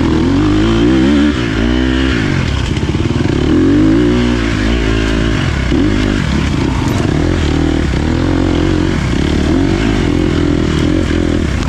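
Dirt bike engine being ridden, its pitch rising and falling over and over as the throttle is opened and closed.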